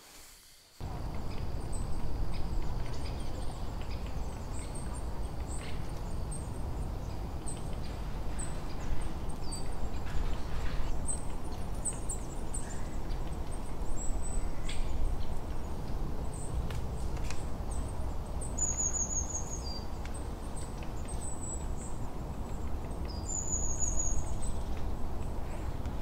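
Birds chirping, short high calls repeating again and again, with two brief trills about two-thirds of the way through and again near the end. They sit over a steady low rumbling noise that starts suddenly about a second in.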